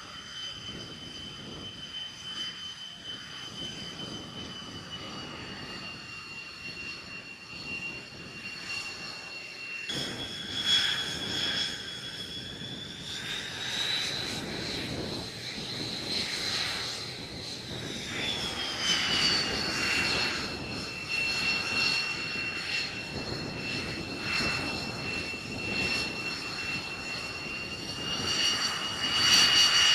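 Jet aircraft engine running with a steady high turbine whine over a rushing rumble. The whine changes abruptly about ten seconds in, climbs in pitch as the engine spools up, then drops back a few seconds later and holds.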